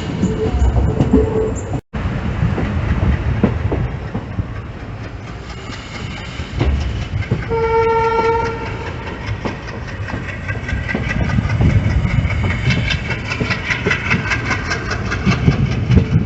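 Passenger train running on the rails: a steady rumble with wheel clatter, and the train's horn sounding once for about a second midway.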